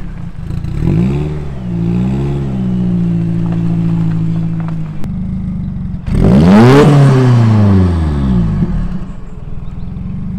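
Mk1 Ford Focus RS's turbocharged 2.0-litre four-cylinder engine revved while parked. There are two quick blips about one and two seconds in and a steady raised run, then one bigger rev about six seconds in that climbs and falls back over a couple of seconds, the loudest part.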